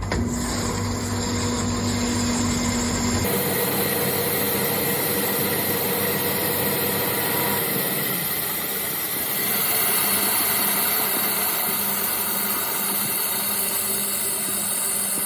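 Steady mechanical running noise with a hum, starting abruptly and changing character suddenly about three seconds in.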